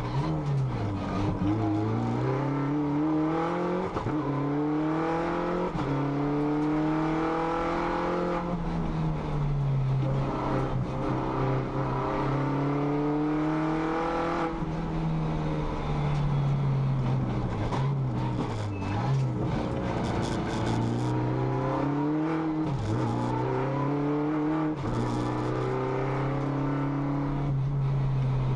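Racing car engine heard from inside the cockpit at full effort, its pitch climbing repeatedly and dropping sharply at gear changes and when slowing for bends.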